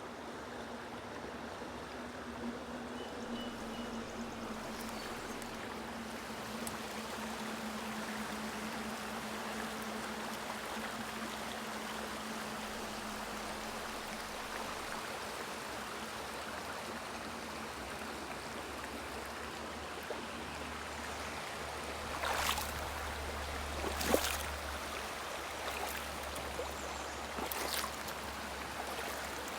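Shallow woodland river running steadily over stones. A faint low hum fades out over the first two-thirds, and several short sharp knocks come in the last third.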